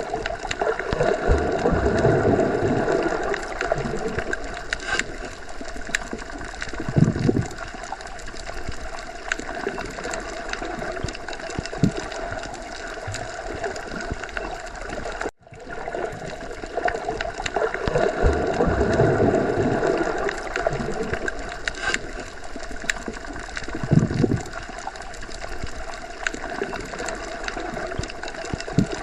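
Underwater sea ambience: a continuous bubbling, gurgling wash of water with slow swells and a few short low surges. It cuts out for a moment about halfway through as the looped recording restarts.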